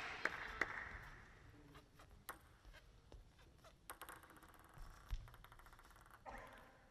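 A hushed indoor hall as crowd noise dies away, with scattered light clicks and a quick run of taps about four to five seconds in, from a table tennis ball being bounced before a serve.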